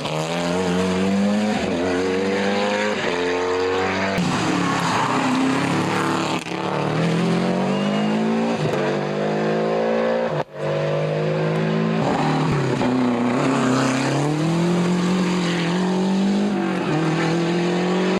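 Rally car engines revving hard under acceleration, the pitch climbing and dropping back again and again as the gears change. A brief sudden break comes about ten seconds in.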